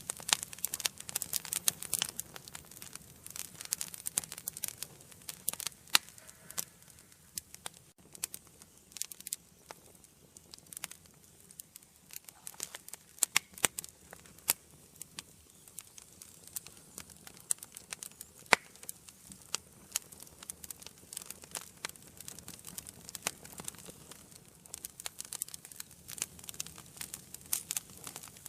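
Wood fire burning in an indoor fireplace: irregular sharp crackles and pops over a faint low hiss, with some louder single pops.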